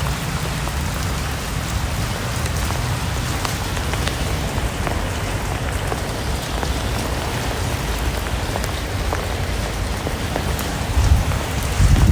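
Steady rain falling, with many separate drops ticking distinctly over a low rumble. The low rumble grows louder near the end.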